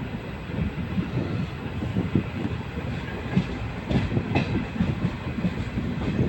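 Running noise of an Indian Railways LHB passenger coach on the track: a steady rumble with uneven wheel knocks over the rails, and a few sharper clicks a little past the middle.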